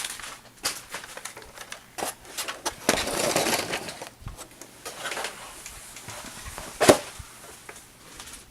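Hard plastic toy belt buckle and its packaging being handled: scattered clicks and rustles, with a louder sharp clack about seven seconds in.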